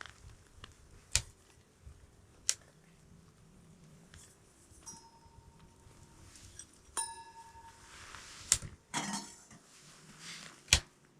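Sharp metallic clicks and clinks from a wood-burning tent stove that has just been lit and closed, about five spread out, one ringing briefly like struck metal.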